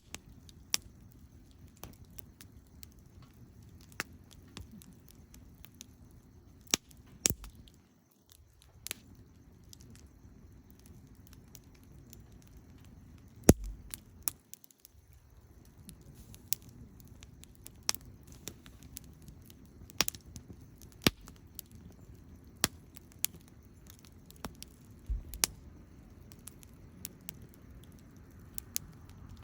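Wood campfire crackling, with sharp pops scattered at irregular intervals over a low, steady rumble.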